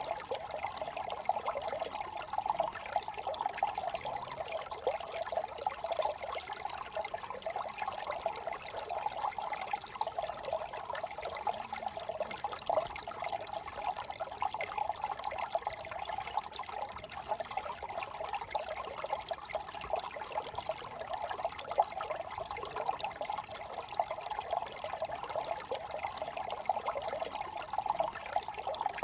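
Small brook trickling and babbling over stones, a steady stream of fine gurgles.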